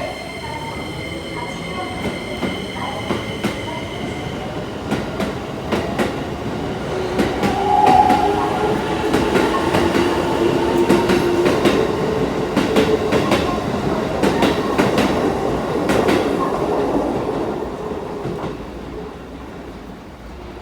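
Keikyu Line electric train pulling into a station platform, its wheels clacking in quick runs over the rail joints. The sound grows loudest in the middle and fades as the train slows.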